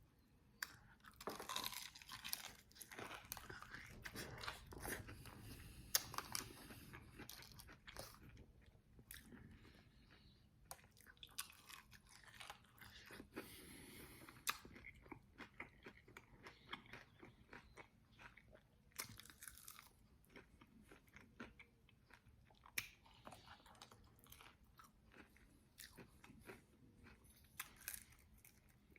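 Close-up eating sounds: biting into and chewing extra-well-done fried chicken wings, with many short crisp crunches and wet chewing throughout.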